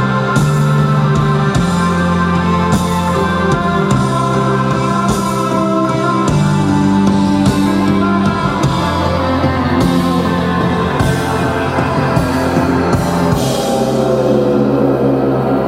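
Live rock band playing an instrumental passage with guitars, bass and drums, heard through a camera's built-in mic. The band changes chords about every second and a half to two seconds, and the sound thins and shifts near the end.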